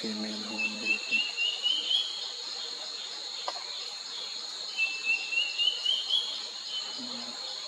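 A bird calling twice, each call a quick run of chirps rising in pitch, about four seconds apart, over a steady high drone of insects.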